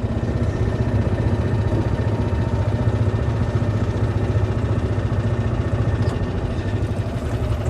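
Golf car running steadily along a cart path, a constant low engine hum.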